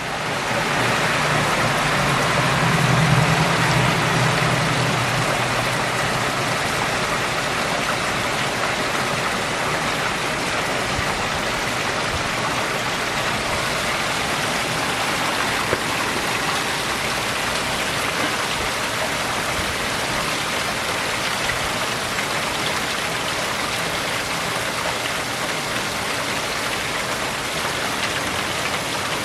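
Rainstorm: rain pouring down in a steady, even hiss. A low hum swells and fades over the first few seconds.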